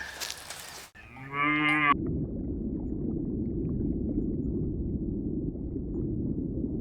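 A cow moos once, a short call of about a second, just after a cut about a second in. It is followed by steady low background noise.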